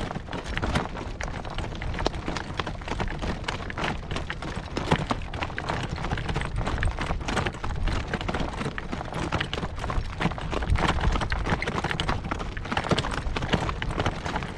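A horse's hooves clip-clopping steadily over rocky ground, a continuous run of sharp knocks and clatter.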